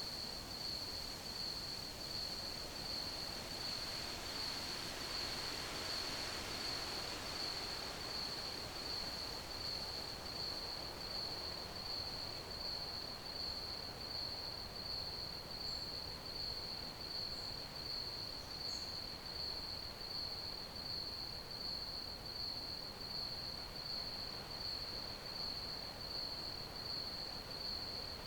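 Crickets chirping: a high, evenly pulsed chirp that keeps on without a break, over a soft steady hiss.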